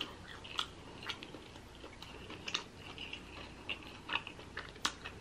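Close-miked chewing of shrimp from a seafood boil: quiet wet mouth smacks and small clicks at irregular intervals.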